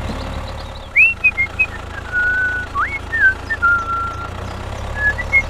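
A string of clear whistled notes, some sliding sharply up or down and some held steady, starting about a second in, over a steady low hum.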